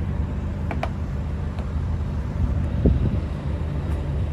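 Truck engine idling with a steady low rumble, with a few light clicks just under a second in and a short thump about three seconds in.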